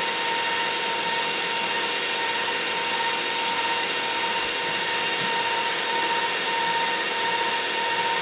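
Electric kitchen mixer running steadily at high speed, whipping butter into frosting; its motor gives a constant whine.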